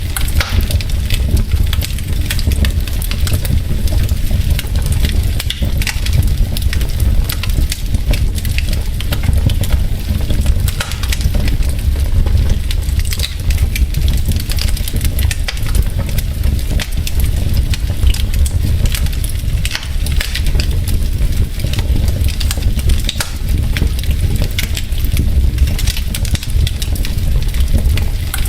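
Wood logs burning in a fireplace, crackling with many small sharp pops scattered irregularly over a steady low rumble of the fire.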